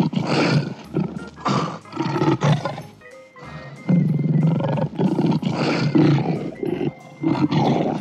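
Lion roaring in a series of loud calls, one after another, over background music.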